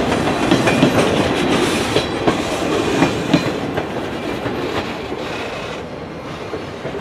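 Freight cars of a slow-moving mixed freight train rolling past, wheels clacking and knocking irregularly over the rail joints, the sound fading steadily as the train moves away.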